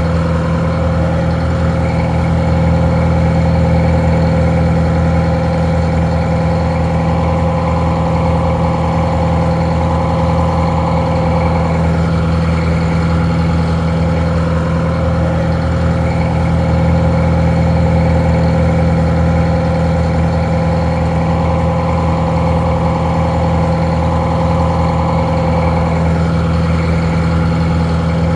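Detroit Diesel 4-71 two-stroke diesel engine idling steadily. It sounds a little muffled.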